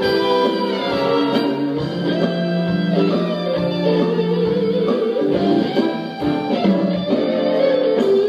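Live instrumental music from a stage musical's band, with held melody notes over a steady beat.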